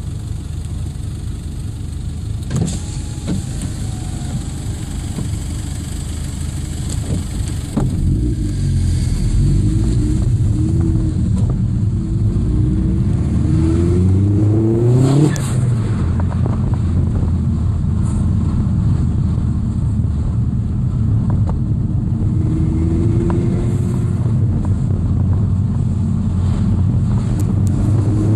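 Vauxhall Astra VXR's turbocharged four-cylinder engine heard from inside the car: idling, then about eight seconds in it pulls away, revs climbing steadily to a peak about halfway and dropping suddenly, then running on at steady speed with a smaller rise in revs near the end.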